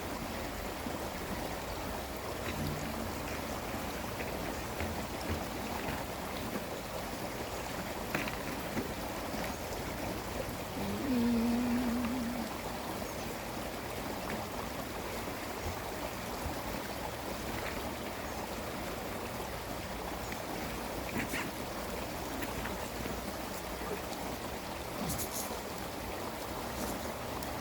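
Babbling brook: a steady rush of water flowing over stones. About eleven seconds in, a single pitched tone sounds for about a second and a half, and a few faint clicks come later.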